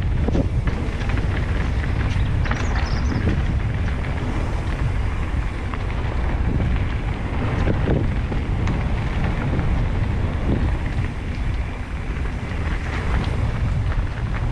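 Wind buffeting the microphone and a steady rumble of mountain-bike tyres on a rough trail at speed, with scattered short knocks and rattles from the bike.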